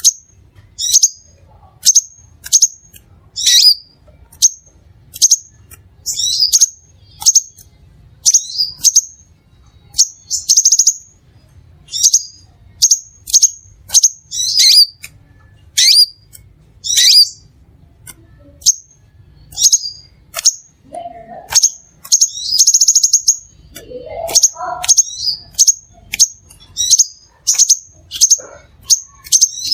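Crimson sunbird calling: short, sharp, high-pitched chirps repeated about once a second, broken twice by a brief buzzy trill.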